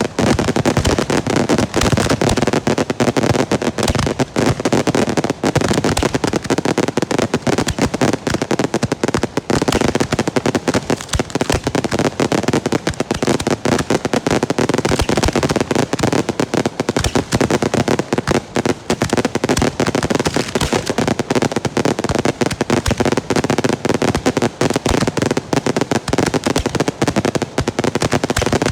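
Girândolas, Portuguese salvo fireworks, going off in a dense, unbroken barrage of firecracker bangs and cracks, many per second, with no pause.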